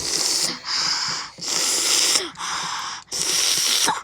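A person breathing hard and fast through the mouth, five loud hissing breaths in about four seconds, the kind of panting made to cool a mouth burning from very spicy chips.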